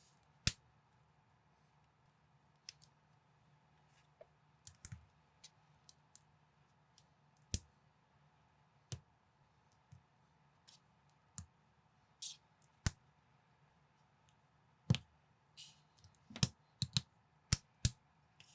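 Plastic building bricks being handled and pressed together: sharp, irregular clicks about once a second, coming faster near the end.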